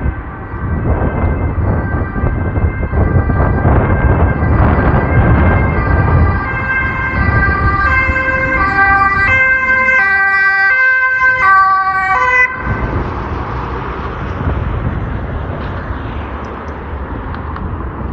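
Strong wind buffeting the microphone, with a siren-like pitched signal over it: a steady high tone, joined partway through by tones stepping up and down about twice a second. The signal cuts off suddenly about two-thirds of the way in, leaving only the wind.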